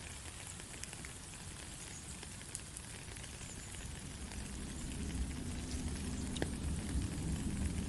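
Steady rain falling, an even hiss with scattered drop ticks. A low rumble underneath grows louder from about halfway through.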